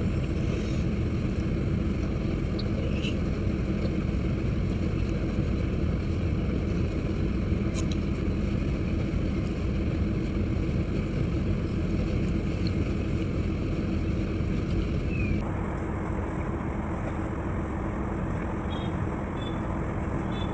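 Steady low rumbling background noise with a faint hum and a few faint clicks; the noise changes abruptly about fifteen seconds in.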